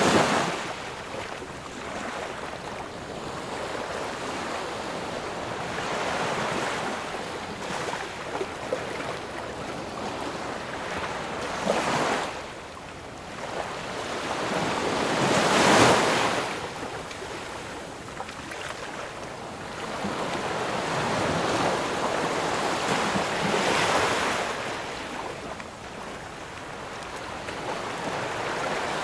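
Ocean waves breaking and washing on the shore, a steady rushing hiss that swells with each wave, roughly every four seconds, the biggest about halfway through.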